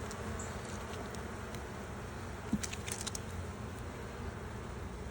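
Honeybees buzzing steadily around an opened hive, with a soft knock and a few light clicks about two and a half seconds in.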